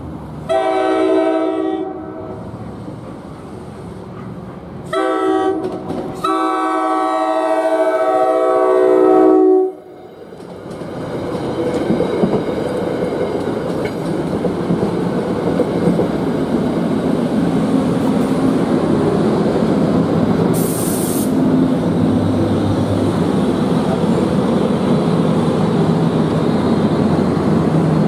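NJ Transit commuter train sounding its chord horn for the grade crossing: a long blast, a short one and a final long one. Then the train passes over the crossing, with a steady rumble and the clickety-clack of wheels over the rail joints.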